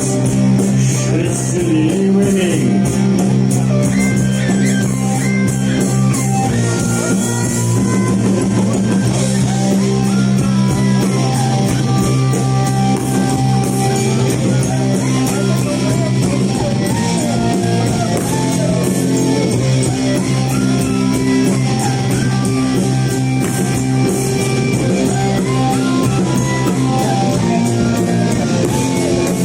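Live rock band playing loud, steady music: guitars and bass over a drum kit.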